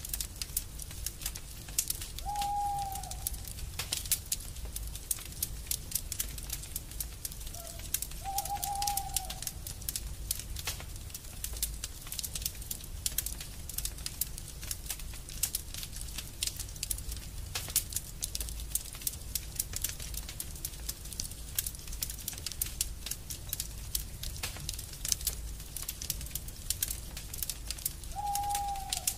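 Wood logs burning in an open fireplace, crackling and popping steadily over a low rumble. Three short bird calls, each a steady low note that drops slightly at the end, come about two seconds in, about eight seconds in and near the end.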